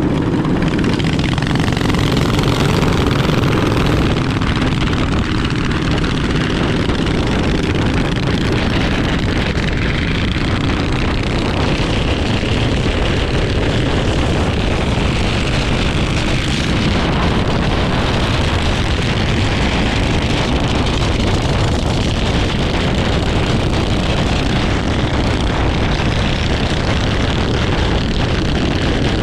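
Minibike engine running steadily while riding, with wind rushing over the microphone.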